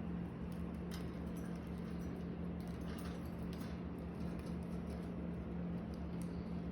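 Faint scratching and light ticking, typical of pet budgies shifting about on perches and cage bars, over a steady low hum.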